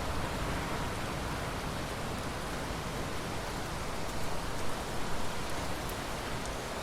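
Steady rain falling, an even hiss of many drops with no thunder heard.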